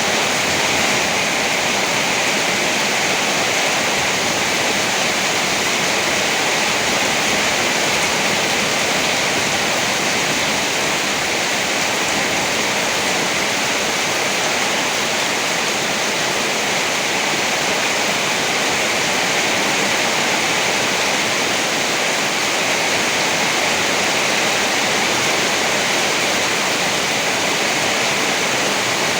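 Heavy rain falling steadily: an even, unbroken hiss, strongest in the upper-middle range, with no thunderclaps.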